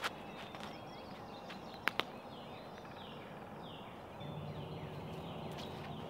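Birds chirping in woodland: a run of short, high, falling notes over a soft outdoor background, with two sharp clicks in quick succession about two seconds in.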